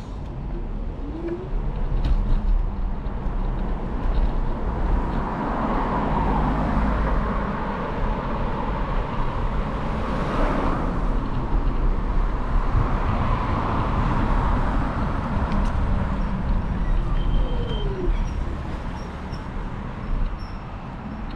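Steady wind and rolling noise from a moving Kugoo G2 Max electric scooter, a deep rumble with a hiss that swells in the middle and eases off again.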